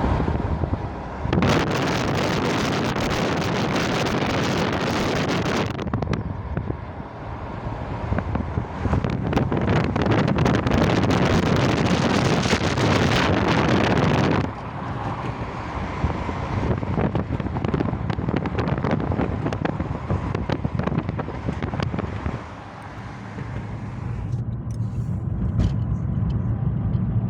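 A car driving, heard from inside: steady road and engine noise, with two long stretches of loud rushing, like wind buffeting the microphone, for a few seconds each in the first half.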